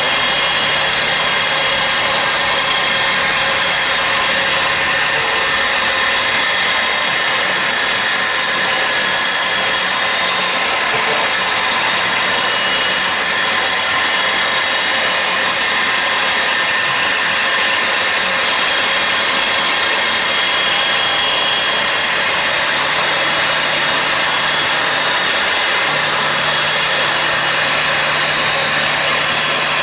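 K-45MT CNC turning center running a milling cycle with a driven tool in its power turret: a steady machine whir with several steady tones. A low hum drops out about five seconds in and returns near the end.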